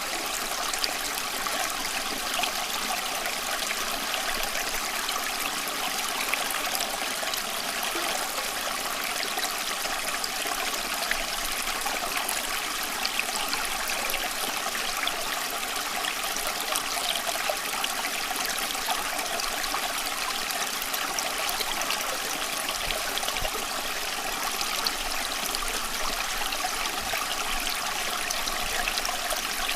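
Running water flowing steadily, an even splashing that does not change.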